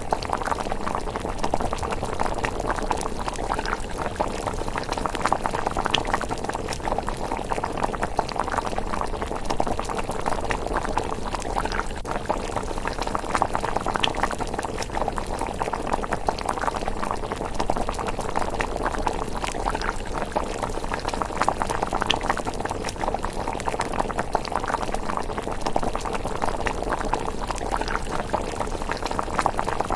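Pot of miso rice porridge simmering at a steady, dense bubble, with a few sharp pops here and there.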